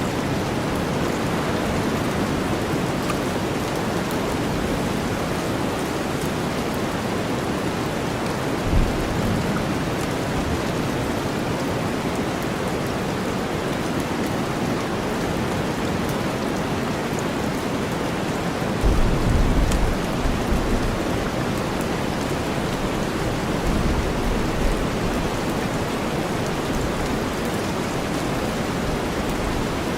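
Steady heavy rain blended with deep white noise, with short low rumbles of thunder about nine seconds in, again around twenty seconds and near the end of that stretch.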